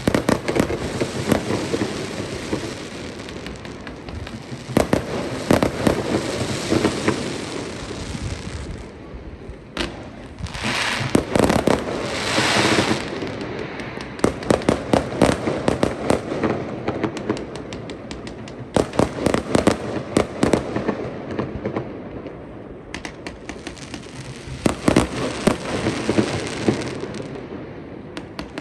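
Fireworks display: volley after volley of bangs and crackling, with two short lulls in between.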